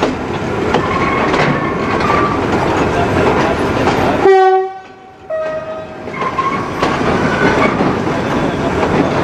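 Container freight wagons rolling past at low speed, wheels clattering over rail joints with short squeals from the wheels. About four seconds in, a short loud pitched tone sounds and the rumble briefly drops away.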